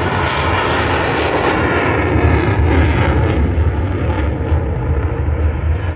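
Military jet aircraft flying past: a loud, steady engine rumble, heaviest in the deep bass.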